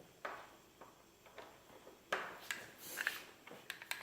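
Scattered light clicks and knocks of hand work with bolts, as button head bolts are set and threaded into a lift table scale's load cells; a cluster of louder knocks falls about two to three seconds in.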